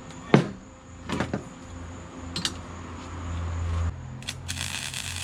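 A few sharp metal knocks from handling exhaust pipe, then, about four and a half seconds in, a steady crackling hiss starts: a welding arc laying a weld on the exhaust pipe.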